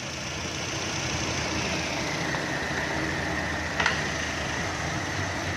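2016 Chevrolet Cruze engine idling steadily. A faint, steady high tone comes in about two seconds in, and there is a single short click near the four-second mark.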